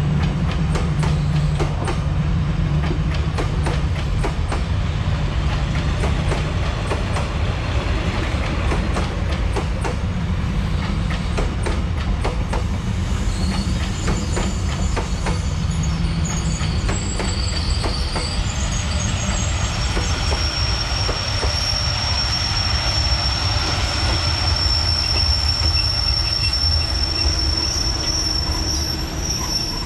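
Train passing close by on metre-gauge track: a steady low rumble with rapid wheel clicks over the rail. From about halfway in, high wheel squeal joins it, becoming one steady high-pitched screech over the last third.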